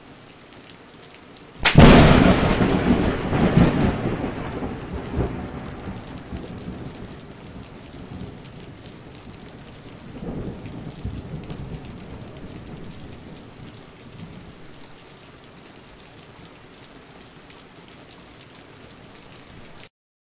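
Thunderstorm: steady rain with a sudden thunderclap about two seconds in, its rumble rolling on and fading over several seconds, and a second, softer roll of thunder about ten seconds in. The rain cuts off abruptly just before the end.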